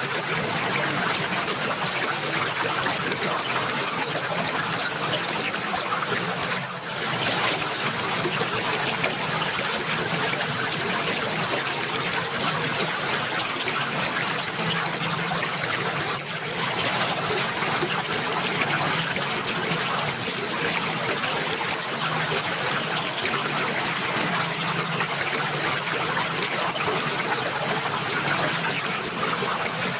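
Running water trickling and splashing in an even, steady rush, with two brief dips in level, one about a quarter of the way in and one about halfway.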